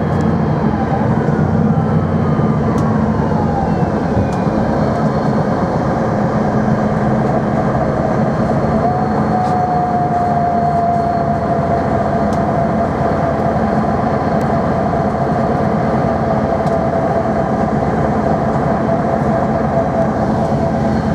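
Electric tram of Barcelona's line T4 running, with a continuous rumble of wheels and motors. Whining tones slide down in pitch over the first few seconds, and a steady high whine comes in about nine seconds in and sinks slowly.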